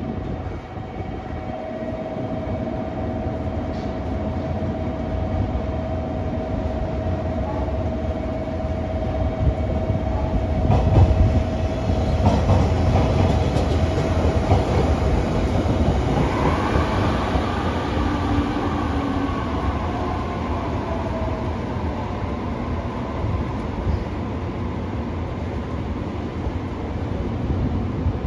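JR Kyushu 815 series two-car electric train running in along the platform. Its wheels rumble over the rails, loudest about eleven seconds in. In the second half a motor whine glides up and then falls in pitch as it slows.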